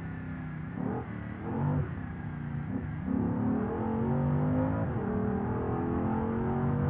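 Porsche Cayenne Turbo S twin-turbo V8 accelerating, heard from inside the cabin. From about three seconds in the engine note climbs steadily; about five seconds in the pitch drops at an upshift, then climbs again.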